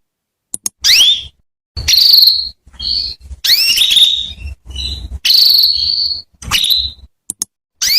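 Female canary calling: quick rising chirps and short buzzy trills, repeated about once a second with brief gaps. It is a female's call, used to stir a male canary into song.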